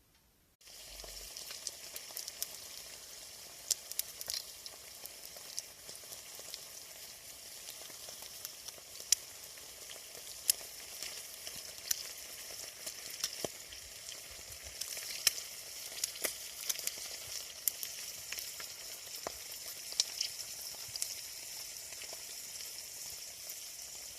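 Steady sizzling hiss dotted with sharp crackles and pops from a campfire, cutting in suddenly about half a second in.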